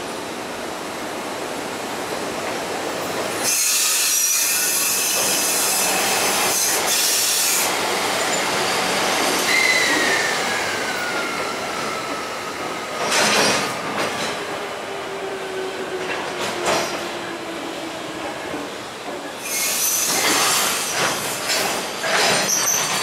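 Container wagons of a freight train rolling slowly past at low speed. Long stretches of high squealing and hissing come from the wheels and brakes, with a whine that falls in pitch about ten seconds in and a few clanks.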